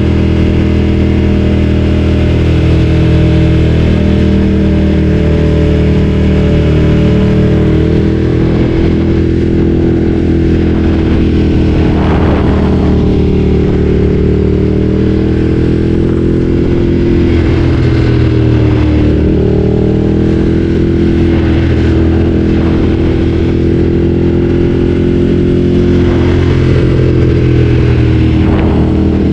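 Ducati Streetfighter 848's L-twin engine running under way at fairly steady revs, its pitch drifting gently up and down, with brief dips a little past the middle and near the end.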